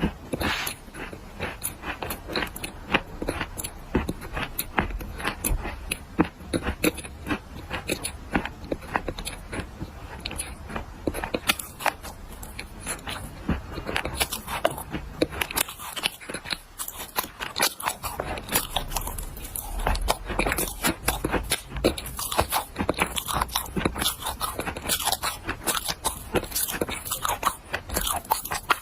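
A person biting and chewing dry black clay close to the microphone: a dense, irregular run of crisp crunches and cracks, with a brief lull a little past halfway.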